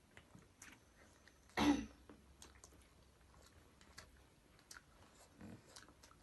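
Faint eating sounds, small wet clicks of chewing and hands on food, broken by one short, loud cough about one and a half seconds in, typical of a mouthful of hot-spicy chutney catching the throat; a softer throat sound follows near the end.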